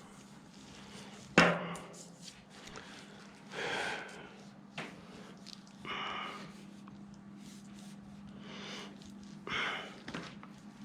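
Handling noise from a car wiring harness being worked by hand: one sharp knock about a second and a half in, then a few brief rustles, over a faint steady hum.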